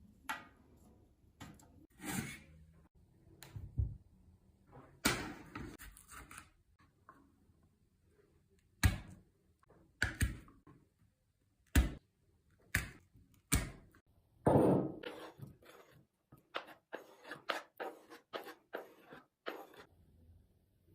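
Kitchen prep handling sounds: separate knocks and thunks as utensils and ingredients are set down and moved on a work surface, with a quick run of light taps for several seconds near the end.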